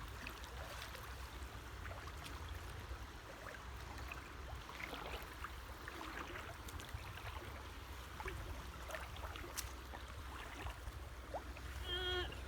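Shallow creek water sloshing and splashing faintly as people wade and drag a seine net through it, with scattered small splashes over a low steady rumble.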